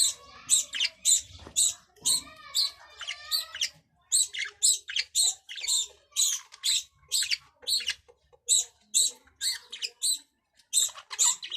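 Budgerigars chirping: a fast run of short, high-pitched chirps, about two a second, with a brief warbling stretch about two seconds in.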